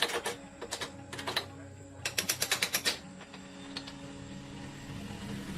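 Sharp metallic clicks and taps from hand tools at work on a motorcycle, including a quick run of about eight clicks in under a second near the middle.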